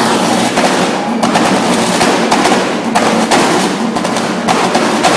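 Car exhaust at high revs, held at full throttle for a loudest-exhaust meter test; very loud, with a rapid crackle running through it.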